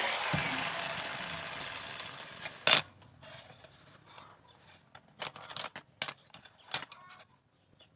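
A power tool spinning down and fading out over the first few seconds, a sharp knock a little before three seconds in, then light, scattered clicks and taps of small bamboo pieces being handled.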